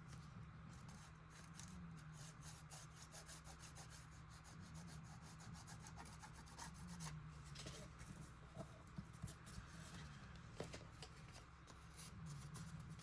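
Faint rubbing and scratching of paper being handled and glued down by hand, with many small clicks, over a low steady hum.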